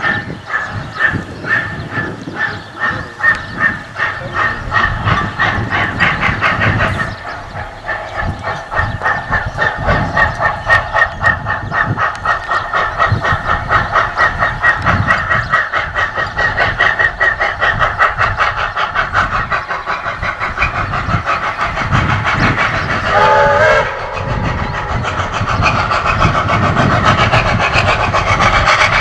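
Steam locomotive Ww 644 running, heard from the cab: a fast, even rhythm of exhaust beats and running clatter. About 23 seconds in comes a short, wavering tone.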